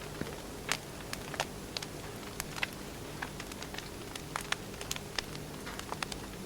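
Wood fire crackling: irregular sharp pops and snaps, several a second, over a steady soft hiss and a faint low hum.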